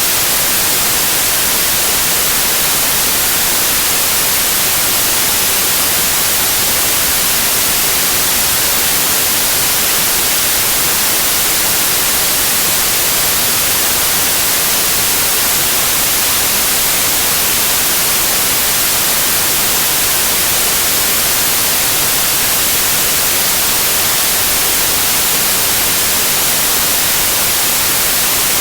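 Continuous white noise like TV static: an even, unbroken hiss, brightest in the highs, with no change.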